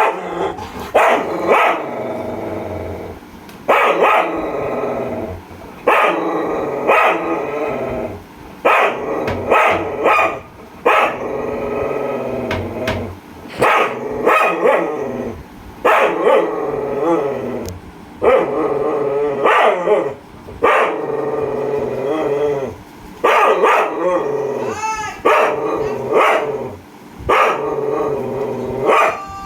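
Angry street dog barking over and over, about every one to two seconds, with growling between the barks.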